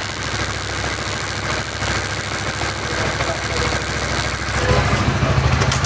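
Honda CBR motorcycle engine running with the newly fitted RCB drive chain turning, run to check that the chain noise is gone. The engine gets louder about four and a half seconds in.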